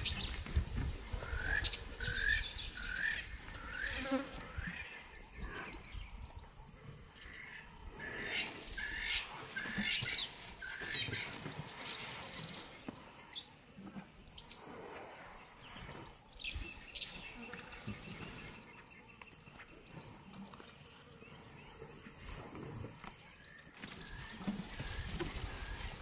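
Savanna ambience: a bird calling in a run of short rising notes, about two a second, through the first half, then a steady high insect drone for several seconds, over faint low rustling and knocks.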